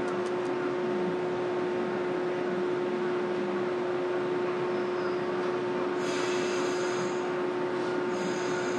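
Steady hum and rushing noise of a train standing at the station platform, with a constant low drone throughout. Faint high hisses come twice in the second half.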